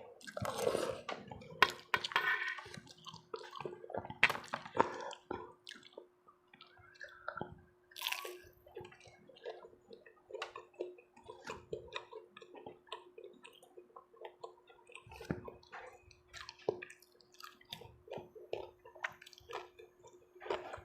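Wet eating sounds: chewing and sipping soup, with many small clicks, busiest in the first few seconds, over a faint steady hum.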